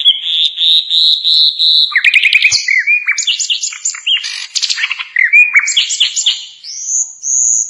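Common nightingale (sikatan londo) singing. It opens with a long, swelling whistle, then runs into fast trills and rattled phrases, and ends on a high, clear whistle near the end.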